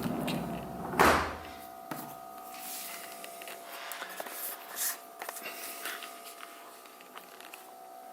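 A door of a Haier HB17FPAAA side-by-side fridge is shut with a single thud about a second in. A few small clicks and rustles follow over a faint steady hum.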